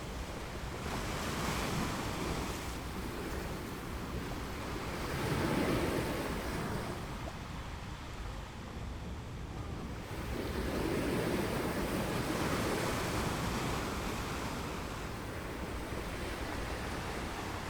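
Ocean waves breaking and washing up a beach, swelling louder and falling back in slow surges every few seconds, with some wind on the microphone.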